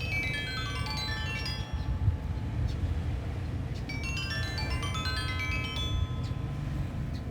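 Sanukite stone xylophone (tuned to 432 Hz) playing quick cascading runs of ringing pentatonic notes. The first run falls in pitch at the start and a second run comes about halfway through. Wind blows steadily underneath, rumbling on the microphone.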